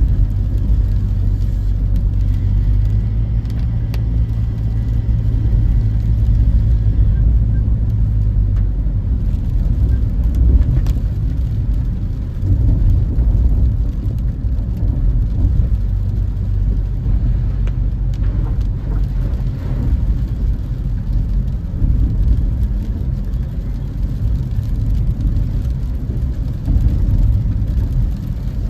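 Car driving on the road, heard from inside the cabin: a steady low engine and tyre rumble. A low hum gives way to a rougher road rumble about nine seconds in.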